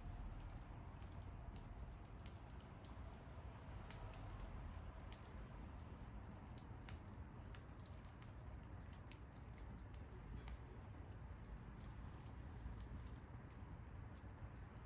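Wood fire crackling, with frequent small sharp pops at irregular intervals over a low steady rumble.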